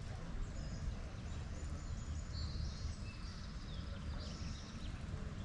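Birds chirping, with a scatter of short high calls and quick sliding notes over a steady low rumble.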